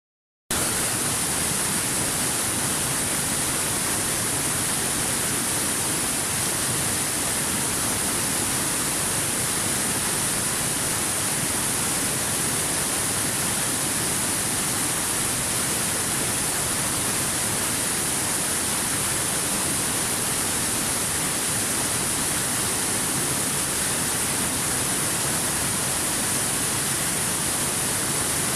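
Waterfall rushing: a steady, even hiss strongest in the high treble, starting abruptly about half a second in.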